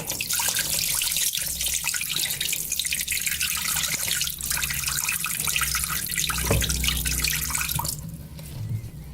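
Water gushing out of the open drain-filter port of a top-loading washing machine, the water trapped inside the machine draining out in a steady splashing stream that dies away near the end.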